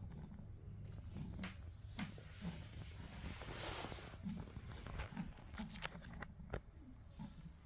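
Pug puppy snoring and snuffling in her sleep: short, low snorts repeating every half second or so, a longer hissing breath about halfway through, and a few small clicks.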